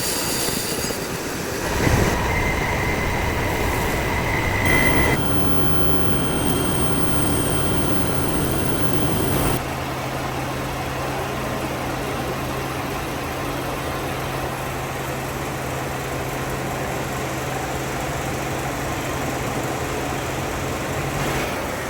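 Workshop machinery running, in several abruptly cut segments: a high-pitched whine over machine noise in the first several seconds, then a steady low hum with noise for the rest.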